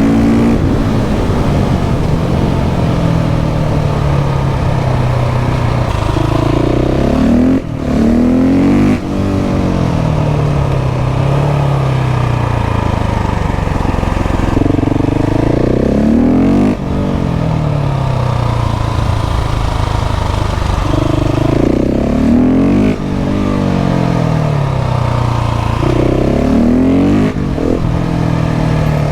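KTM 690 SMC R's LC4 single-cylinder engine riding hard, its revs climbing and falling back again and again as it accelerates and rolls off, with short drops in sound at the gear changes. Loud and deep.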